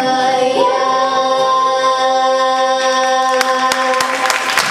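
Vocal ensemble holding the final sustained chord of a song in several parts, released about four seconds in, as audience applause breaks out near the end.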